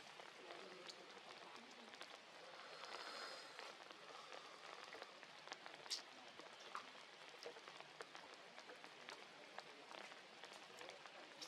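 Light rain falling: a faint, even hiss of drops with scattered small taps, and one sharper tap about six seconds in.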